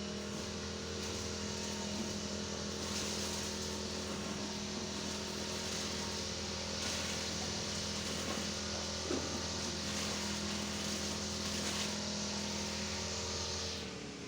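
An engine or motor running steadily: a constant hum with a hiss above it, dipping briefly near the end.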